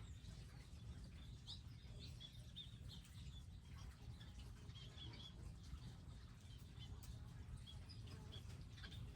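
Faint, scattered chirps of small wild songbirds, many short notes over a steady low background rumble.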